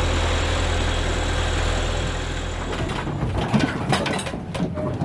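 A boat's inboard engine running with a steady low drone. About three seconds in, the drone drops away, leaving scattered clicks and knocks.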